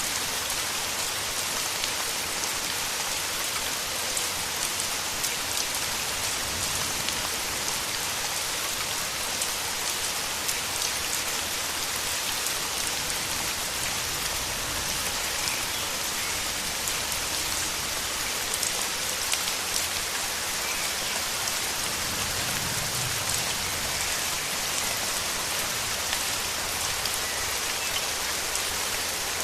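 Steady rain falling in a rainforest: a dense, even patter of drops.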